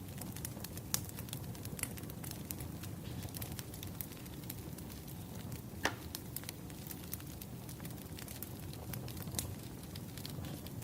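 Firewood burning: a steady low rumble with scattered sharp crackles and pops, one louder pop about six seconds in.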